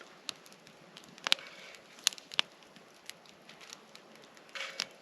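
Hot grease popping and spitting in a frying pan as a pancake cooks, in scattered sharp pops over a faint sizzle; there is too much grease in the pan.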